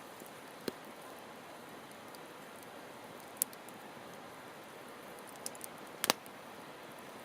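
Wood campfire burning with a steady soft hiss, broken by a few sharp crackling pops, the loudest a double pop about six seconds in.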